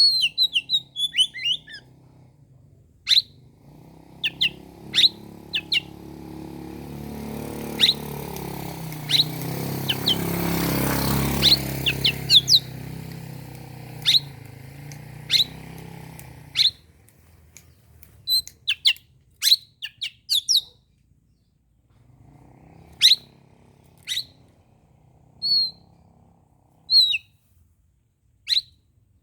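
Oriental magpie-robin (kacer) singing: a quick run of chirps at the start, then single sharp whistled notes about every second. A low rumble swells and fades in the background through the middle.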